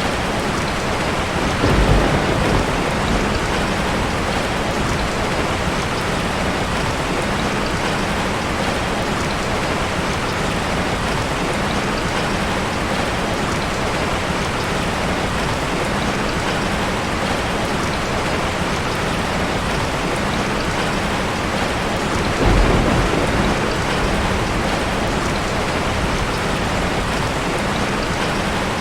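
Steady rain, an even hiss of falling drops. Two brief low rumbles of thunder rise over it, about two seconds in and again about twenty-two seconds in.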